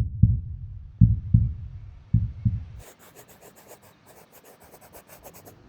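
Three low double thumps about a second apart, in a heartbeat-like rhythm, then faint rapid high ticking for the last few seconds.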